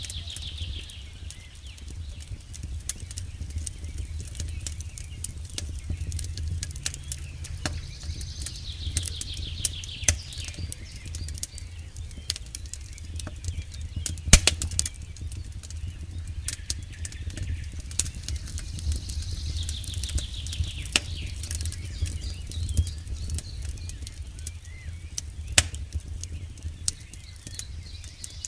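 Campfire burning: wood crackling and popping in dense sharp clicks over a low steady rumble, with one loud pop about 14 seconds in. A high falling trill recurs about every ten seconds in the background.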